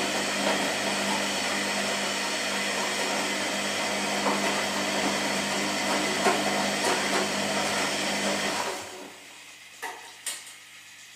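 Washing machine running: a steady motor whir with a hum under it. It winds down and stops about nine seconds in, followed by two sharp clicks.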